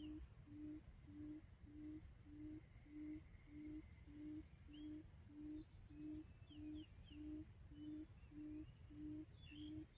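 Faint quail lure call: a low hoot repeated steadily, a little under two a second. A thin high whine and a few faint bird chirps sit above it.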